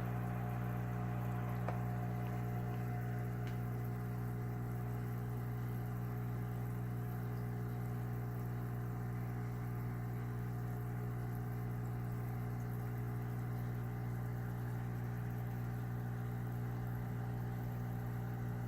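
Steady electric hum of an aquarium's water pump, a low mains-pitched buzz with overtones that holds unchanged throughout.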